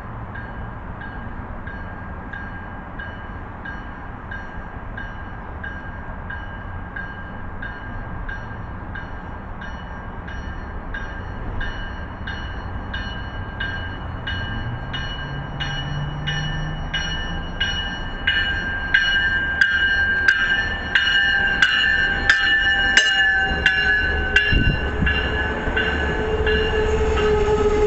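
An approaching diesel commuter train ringing its locomotive bell, about three strokes every two seconds, growing louder as it nears. Its horn comes in over the bell in the last few seconds.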